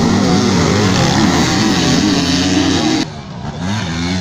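Several motocross bike engines running together, their pitches rising and falling as the riders work the throttles. About three seconds in the sound drops suddenly to a quieter, thinner engine note.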